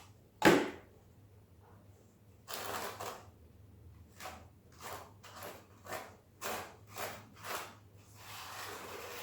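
A sharp knock about half a second in, then a notched hand scraper combing tile adhesive in short scraping strokes, about two a second, with a longer stroke near the end.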